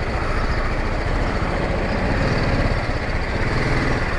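Motorcycle engine running steadily while riding, mixed with steady wind noise over the helmet camera's microphone.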